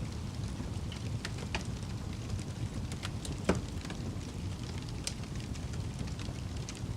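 Wood fire burning in a fireplace: a steady low rumble with scattered crackles and pops, the loudest pop about halfway through.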